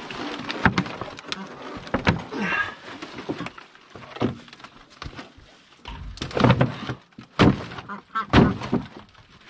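A series of heavy thuds and knocks with some cracking, from the broken plastic pond tub being wrenched loose and handled. The heaviest thuds come in the second half.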